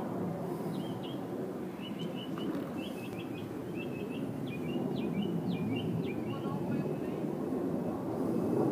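Small birds chirping in quick short notes through most of the stretch, over the low rumble of distant jet aircraft that swells near the end.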